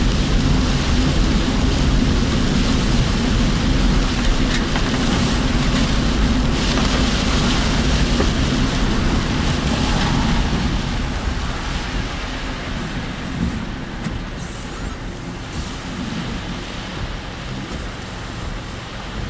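Road noise heard from inside a moving car in typhoon rain and wind: engine and tyres on a wet road. It gets quieter after about ten seconds.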